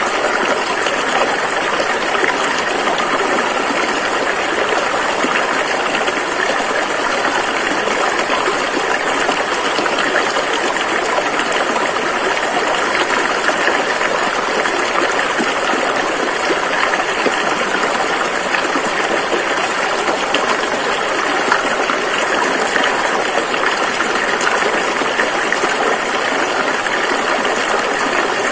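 Rushing river water: a steady, even rush of flowing rapids with no breaks.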